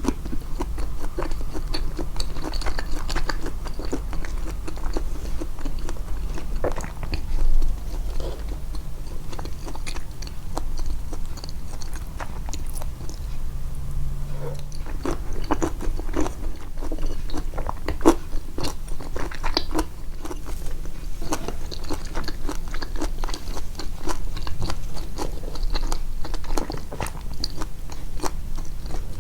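Close-miked eating, the chewing sounds boosted in editing: bites and wet chewing with many small mouth clicks and crunches. A low hum sits underneath for the first eight seconds or so.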